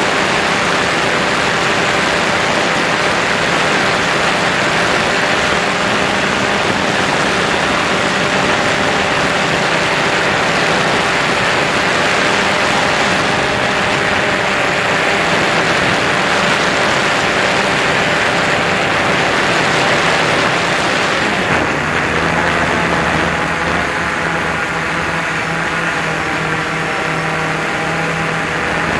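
DJI Phantom 2 quadcopter's motors and propellers humming at a steady pitch under wind noise. About three-quarters of the way through, the sound shifts: lower tones come in and the high hiss thins.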